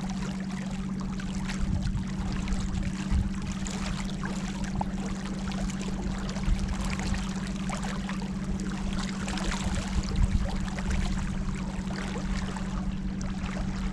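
Small boat's motor humming steadily, under an even wash of water noise.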